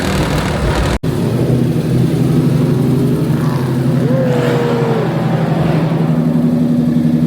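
A car engine running at a steady, loud idle. The sound drops out for an instant about a second in, and a short sliding tone is heard around the middle.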